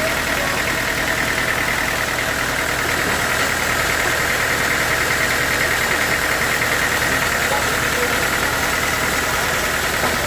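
Sawmill machinery running steadily, an engine-driven drone with a constant high-pitched band over it.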